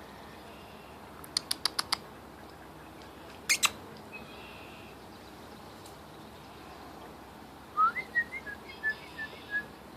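A small bird calling: a short rising note near the end, followed by a quick run of short chirps. Earlier, a few sharp clicks, four close together and then two more.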